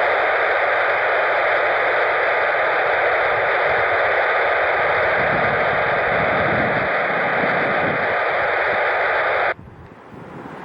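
Air-band radio receiver hissing with steady static after a controller's transmission, cutting off suddenly near the end and leaving faint outdoor wind and aircraft noise.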